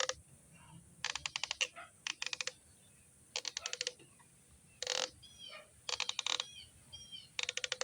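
Hand ratchet wrench clicking in about seven short bursts of rapid clicks, a few strokes at a time, as a part is tightened on. Faint bird chirps in between.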